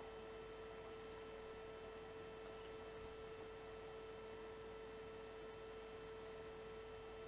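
A faint, steady hum: one held tone that never changes, over low background hiss.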